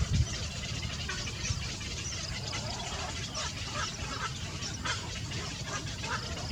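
Small birds giving many short, rapid peeps and chirps, over a steady low rumble, with a thump right at the start.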